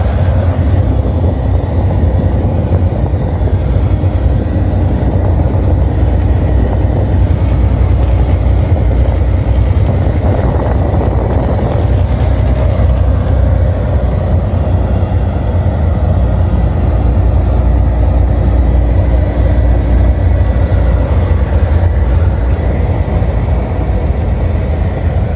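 Truck engine and road noise as a steady low rumble, with a faint thin steady whine above it.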